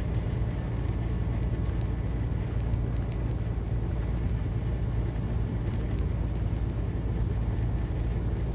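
Steady low drone inside a semi-truck cab while driving on the highway: diesel engine and road noise.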